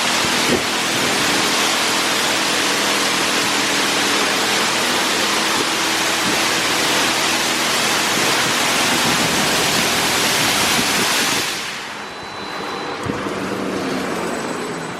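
Water jets of a PDQ LaserWash 4000 touchless car wash spraying onto the car, a steady loud hiss with a hum beneath, that stops about eleven and a half seconds in, leaving a quieter machine hum.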